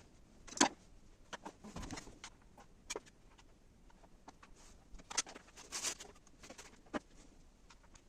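Irregular clicks, taps and rustles of objects being handled in a small room, the sharpest click about half a second in.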